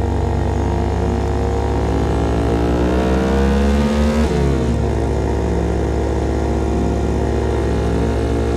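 CFMOTO Papio SS single-cylinder engine running through a KO Lightning slip-on exhaust while riding. Its note climbs for about two seconds, drops abruptly just after four seconds in, then holds steady again.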